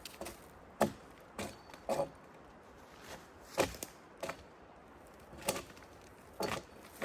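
A series of sharp knocks and cracks, about seven of them at uneven intervals.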